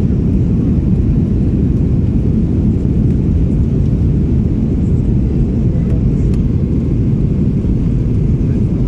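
Jet engines of a Ryanair Boeing 737 airliner at takeoff power, a steady low rumble that holds an even level throughout.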